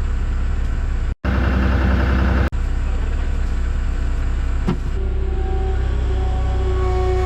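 John Deere 240 skid steer's diesel engine running steadily while it lifts an engine block. The sound drops out for a moment about a second in, and a steady whine joins the engine about five seconds in.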